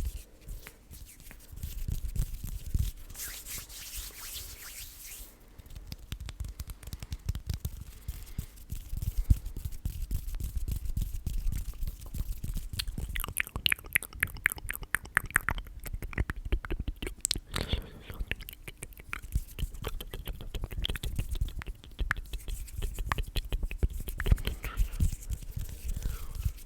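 Close-miked ASMR mouth and hand sounds: soft rubbing early on, then a run of rapid wet clicks and crackles in the middle, with low bumps against the microphone throughout.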